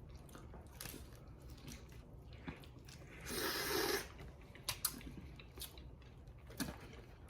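Faint close-miked eating of boiled Cajun crawfish: chewing and small wet clicks and smacks. About three seconds in there is a louder breathy rush lasting under a second.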